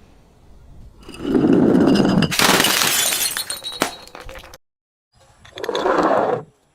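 A glass bottle shattering: a sharp crash a little over two seconds in, with the clatter of pieces fading over the next two seconds. A lower, duller crunching sound comes just before the crash and again near the end.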